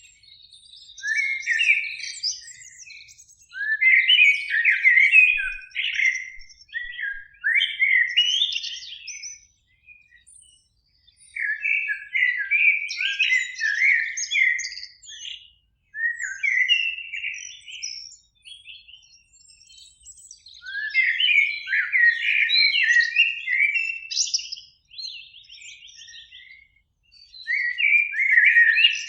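Eurasian blackbird song: about six unhurried phrases of low fluting, warbling notes, each followed by higher, thinner twittering, with short pauses in between.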